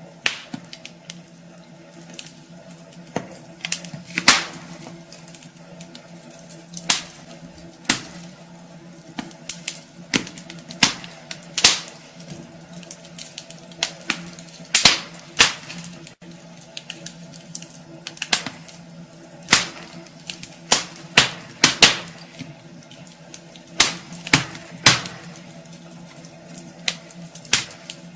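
Wood fire crackling in a fireplace, with irregular sharp pops and snaps, sometimes several in quick succession.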